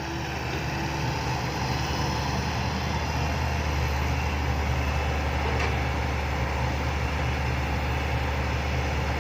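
Heavy diesel engine running steadily under a constant load, with a deep, even hum and no rise or fall in pitch.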